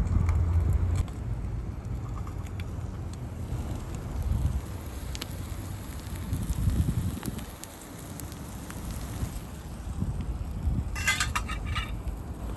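Wind rumbling on the microphone over a charcoal fire crackling with scattered small pops, and a brief quick rattle of clicks about eleven seconds in.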